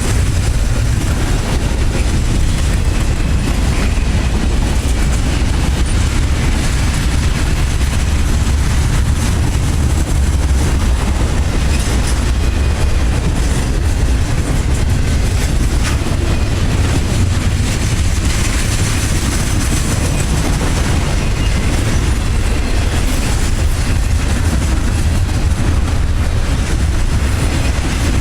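Train cars rolling past at close range: a steady, loud rumble with wheels clacking over rail joints.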